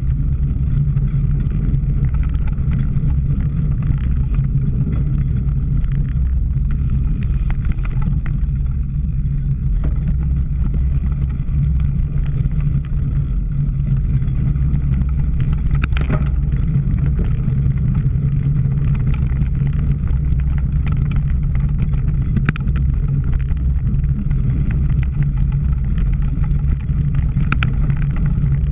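Steady low rumble of wind buffeting and tyre noise on a camera carried by a cyclocross bike or rider racing over rough ground. A few sharp clicks or knocks come through about halfway in and twice near the end.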